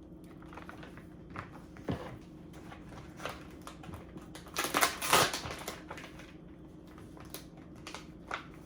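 Light clicks, taps and rustles of cheese slices being handled and laid onto sandwich bread, with a louder rustling scrape about five seconds in, over a steady faint hum.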